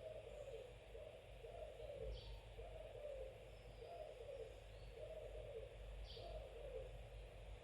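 Faint bird hooting in a steady series of short low calls, about one a second, stopping about six and a half seconds in. Two brief high chirps come through, about two seconds in and again about six seconds in.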